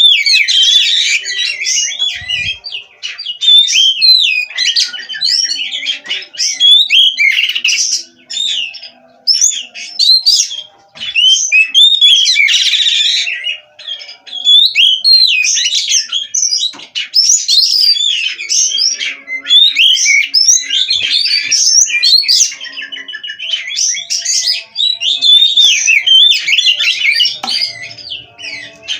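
Oriental magpie-robin (kacer) singing energetically, a rapid, varied run of whistled and chattering phrases with a few short pauses.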